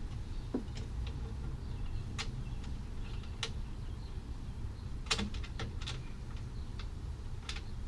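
Scattered light clicks and taps of parts and tools being handled during radiator work, about a dozen irregular ticks with a sharper knock about five seconds in, over a steady low rumble.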